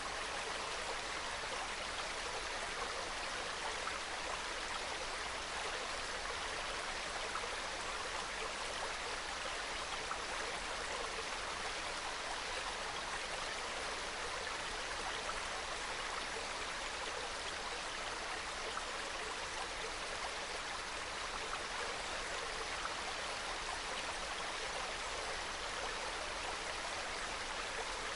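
Small mountain stream babbling and trickling steadily over rocks, a soft even gurgle with faint droplet ticks.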